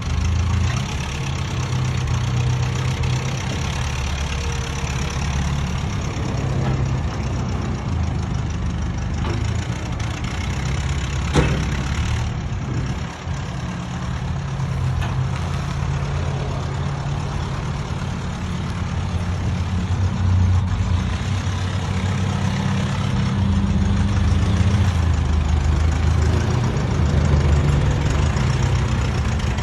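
An engine idling steadily, with a single sharp knock about eleven seconds in.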